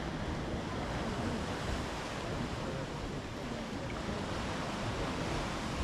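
Steady wash of sea surf with wind, an even rushing noise without a break.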